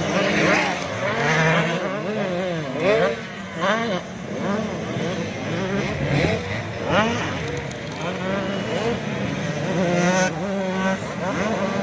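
Small-displacement two-stroke motocross bikes of an 85cc race class, engines revving hard, their pitch climbing and dropping back again and again as the riders shift and work the throttle, with several bikes overlapping.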